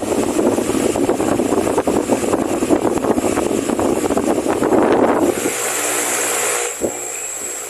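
A Venti-Delta Premium 60 cm 170 W wall fan running, its airflow buffeting the microphone in a loud, gusty rush. About five and a half seconds in the buffeting stops, leaving a steadier hiss with a faint high whine.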